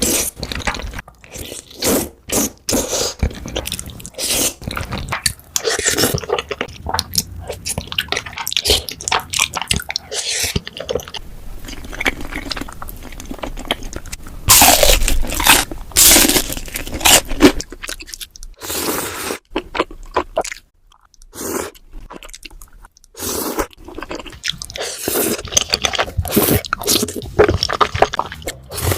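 Close-miked eating of cheesy rose tteokbokki: chewing and biting of the chewy rice cakes in creamy sauce, with irregular wet mouth sounds and sharp clicks, briefly quieter about two-thirds of the way in.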